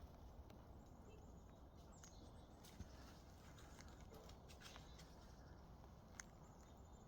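Near silence: a faint background hush with a few scattered faint clicks and ticks, and faint high chirps.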